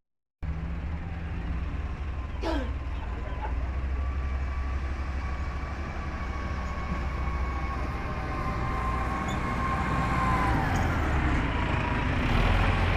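Truck engine running steadily with a low rumble and a faint steady whine that drops slightly in pitch near the end. A short falling squeak comes about two seconds in.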